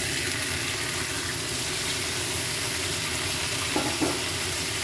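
Fried chicken pieces sizzling in hot oil with garlic and ginger in a nonstick wok, a steady frying hiss. About four seconds in, a spatula stirs them with two short knocks against the pan.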